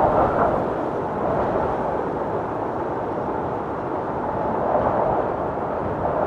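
Strong wind buffeting the microphone in a moorland snowstorm, a rough, rumbling rush that swells and eases.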